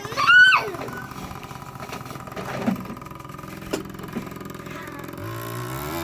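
Small dirt bike engine running with a rapid, steady putter, its pitch climbing near the end as it revs up. A brief high squeal rises and falls right at the start.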